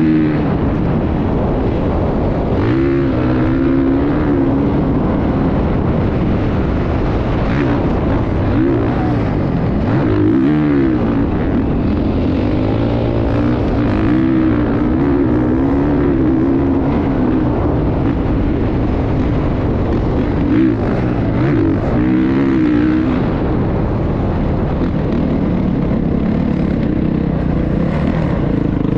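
Motocross bike engine running hard, its pitch rising and falling over and over as the throttle is worked, over a steady rush of noise.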